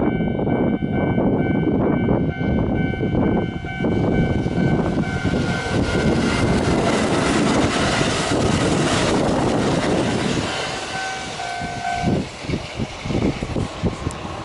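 Kintetsu electric train passing over a level crossing: its running noise builds to a peak about halfway through and eases off, with regular wheel clatter over rail joints near the end. Steady ringing tones at the start fit the crossing's warning bell.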